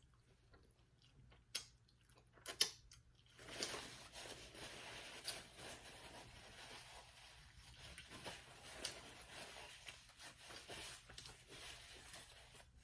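Faint close-up crinkling and rustling dotted with small clicks, starting about three seconds in after a few isolated ticks.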